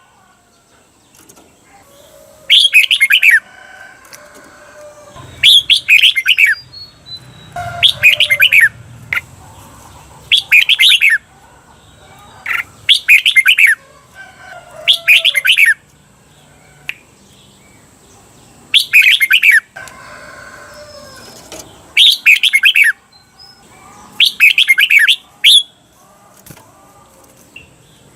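Red-whiskered bulbul singing loud, rapid song phrases of about a second each, repeated every two to three seconds, with fainter warbling between them. This is the doubled 'double' song (เบิ้ล) that keepers play to train competition bulbuls.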